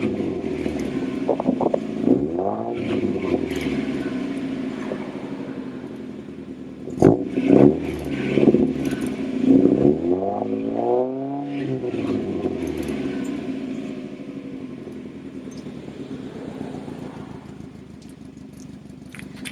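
Mazda Miata NA 1.6 inline-four on twin Mikuni carburettors and a K1 Racing exhaust, revved in a series of quick blips with two sharp cracks about seven seconds in, then settling back to a steady idle that grows quieter near the end.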